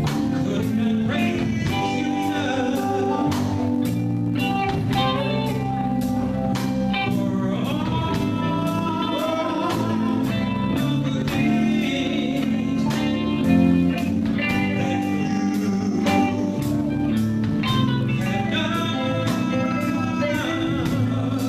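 Live band music with singing: guitar and bass over a steady drum beat, with sung melody lines rising and falling.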